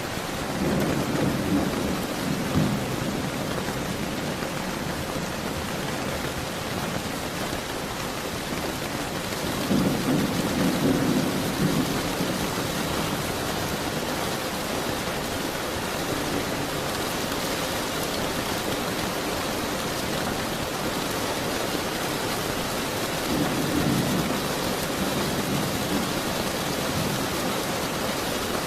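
Steady rain with thunder rumbling three times: near the start, about ten seconds in, and near the end.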